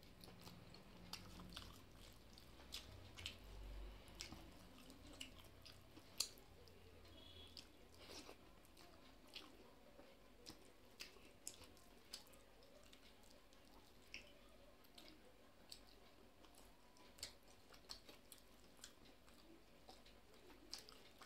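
Faint close-miked chewing and wet mouth clicks from someone eating rice with chicken curry by hand, picked up by a clip-on microphone. Irregular, soft smacks and ticks come every second or so.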